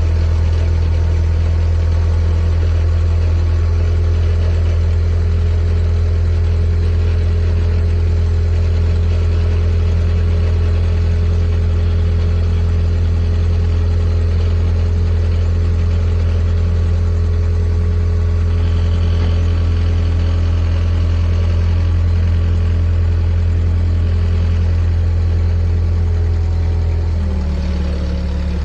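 A vehicle engine running steadily with a deep, even drone; near the end the note dips briefly and then picks up again.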